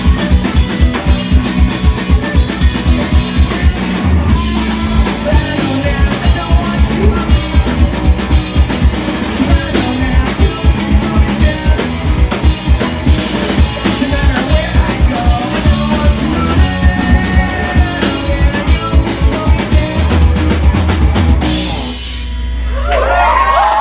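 A rock band playing live: drum kit with a fast, even kick-drum beat under guitars and bass. About twenty seconds in the drumming stops and a held chord rings on to the end.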